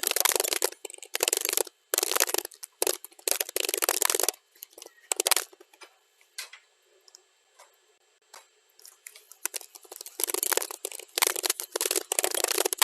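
Computer keyboard typing, played back at double speed: rapid runs of keystroke clicks. About four seconds in the typing slows to a few scattered taps, and it picks back up to a fast run about five seconds later.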